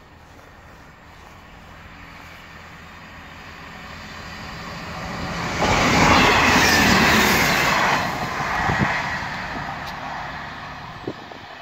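Class 158 diesel multiple unit passing at speed: its noise builds steadily, is loudest about six to eight seconds in as the train goes by close up, then fades as it draws away.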